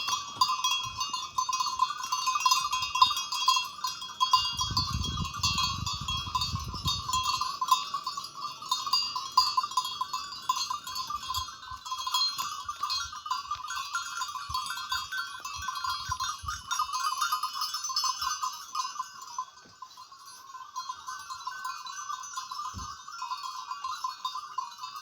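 A continuous outdoor chorus of calling animals, two steady layers of fast trilling, one lower and one higher, with a brief low rumble about five seconds in.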